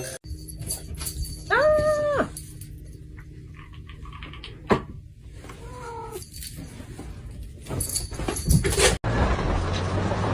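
An animal calling twice: a drawn-out cry that rises and falls about a second and a half in, and a shorter, fainter one around six seconds, among scattered clicks and knocks. Near the end a steady hiss takes over.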